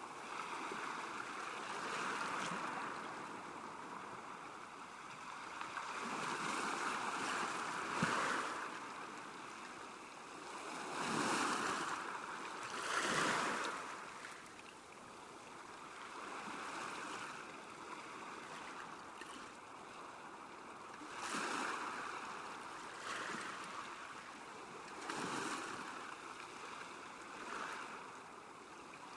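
Small waves lapping against a lake shore: a steady wash of water that swells and ebbs every few seconds.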